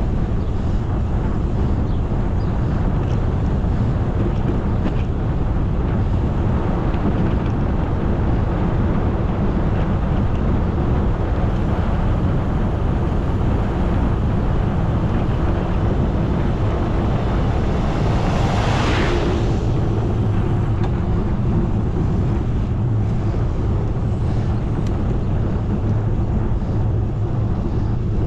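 Steady wind rushing over the microphone of a moving bicycle, with a brief louder rush about two-thirds of the way through.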